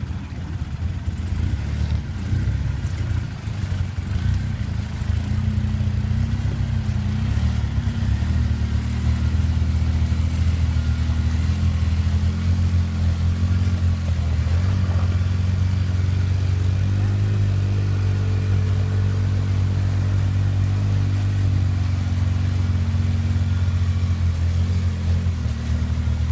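Engine of a Polaris RZR side-by-side running under steady load as it drives. It picks up a few seconds in and then holds a steady note.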